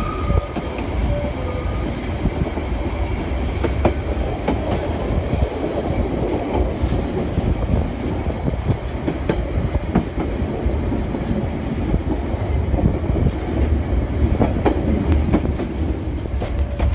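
Narrow-gauge train running along the track, heard from aboard a coach hauled by a diesel locomotive: a steady rumble with the wheels clicking over rail joints now and then.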